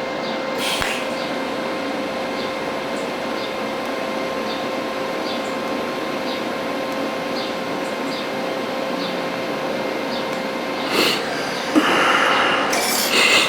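TIG welding stainless steel: a steady arc hiss with a constant whine from the welder on the final tie-in weld. A few louder, noisy clattering sounds come near the end.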